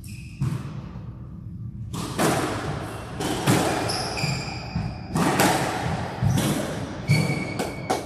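A squash rally: the ball cracks off racquets and the court walls at irregular intervals, with short high squeaks of court shoes on the wooden floor.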